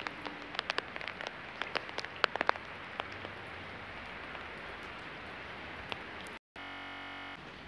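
Steady rain hiss with sharp taps of individual raindrops, many in the first three seconds and fewer after. The sound cuts out for an instant near the end.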